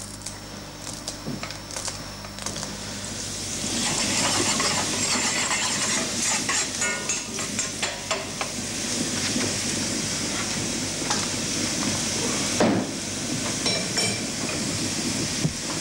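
Cooking pot of vegetable bouillon over a wood fire: a sizzling, crackling hiss that grows louder about four seconds in, with scattered clicks and scrapes of metal against the pot and a louder knock late on.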